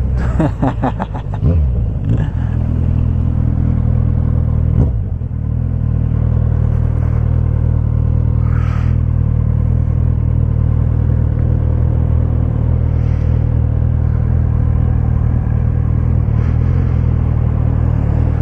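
Suzuki Bandit 1250's inline-four engine running through a straight pipe with no muffler. It is a loud, deep exhaust note whose pitch shifts up and down in the first couple of seconds, then holds at steady revs.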